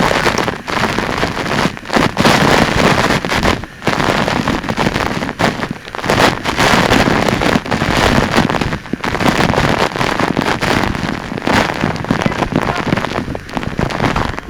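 Waterfall water rushing and splashing, a loud even noise that dips briefly every few seconds.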